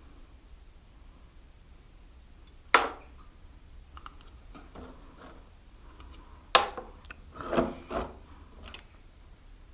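Small metal parts being handled and dropped into a container, likely loose steel ball bearings from the steering head: a sharp clack about three seconds in, another a little past six and a half seconds, then a short rattle just after, with faint clicks between.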